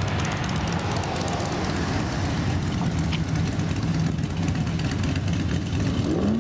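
Classic car engine and exhaust idling with a low, steady rumble as the car rolls out of the show. The engine begins to rev up near the end.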